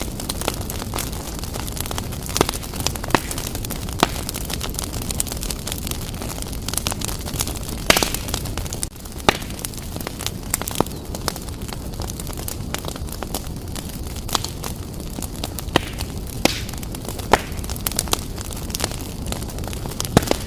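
Wood fire burning briskly in a fireplace: a steady low rush of flames with frequent sharp crackles and pops, and a few louder snaps.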